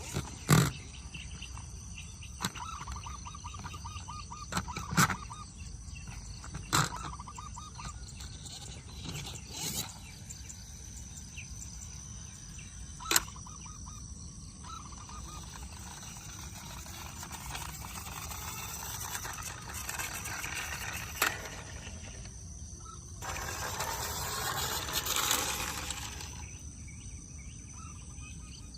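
Outdoor background with faint repeated chirping, broken by sharp clicks or knocks every few seconds and a louder rush of noise about 23 seconds in that lasts some three seconds.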